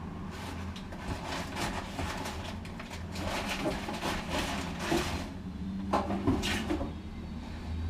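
Hands handling dryer parts and packaging: irregular rustling, clicks and light knocks, over a steady low hum.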